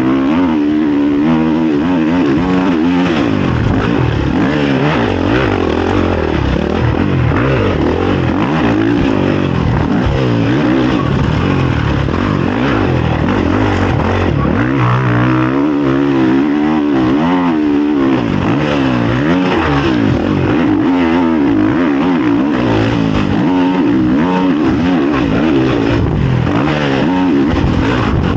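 Honda CRF450 motocross bike's single-cylinder four-stroke engine, revving up and falling back over and over as it is ridden hard through a lap, heard from a camera worn by the rider.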